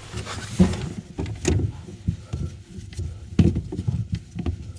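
Plastic sink waste fittings being handled and fitted together: irregular knocks and clunks, with a few sharper clicks.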